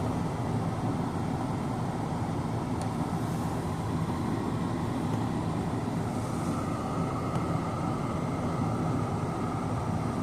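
Engine of a truck stuck in snow running as the driver works to get it free: a steady low rumble, with a steady higher whine joining about six seconds in.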